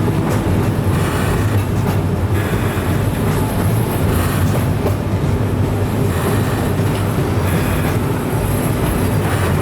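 Oigawa Railway Abt-line passenger train running along the track: a steady, loud rumble of wheels and running gear.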